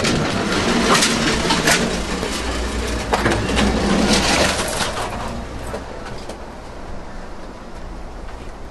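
Amtrak passenger train heard from the connection between two moving cars: a loud rumble of the running gear with sharp clanks and squeaks from the car connection. It falls clearly quieter about five seconds in, as the coach car is entered.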